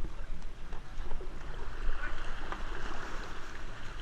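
Kayak paddles splashing and water sloshing around the boats, with a steady low rumble underneath.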